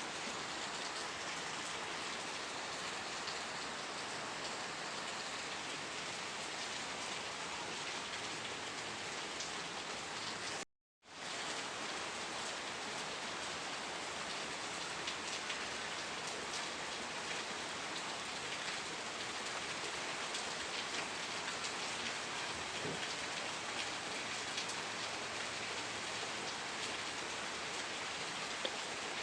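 Steady rain falling, a dense even patter of drops. It cuts out to silence for a split second about eleven seconds in, then resumes unchanged.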